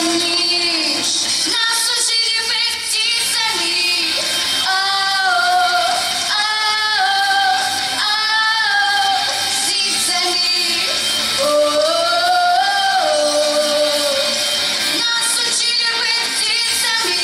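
A young girl singing a song over a backing track, in phrases of held notes that slide between pitches.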